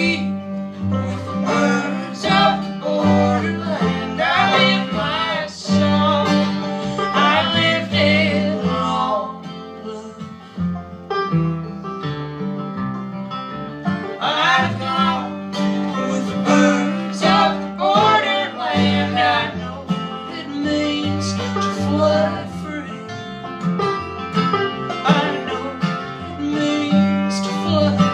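Acoustic folk band playing: plucked guitar and banjo over a bass line, with singing.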